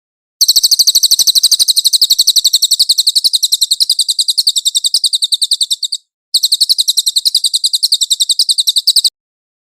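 Cililin bird singing two long, rapid trills of high, evenly repeated chips, about a dozen notes a second, with a brief break about six seconds in.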